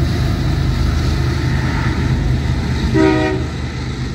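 Diesel locomotive idling close by with a steady low throb, over the rumble of an empty auto rack train rolling past, heard from inside a car. About three seconds in, a short horn toot sounds.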